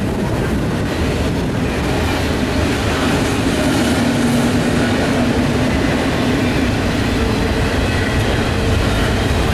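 BNSF double-stack intermodal freight train's container well cars rolling past, a steady rumble and rattle of wheels on rail.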